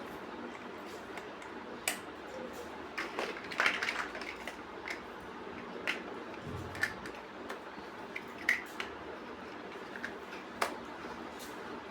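Plastic building bricks being handled and pressed together: scattered sharp clicks and light taps every second or so, with a short cluster of clicks a few seconds in.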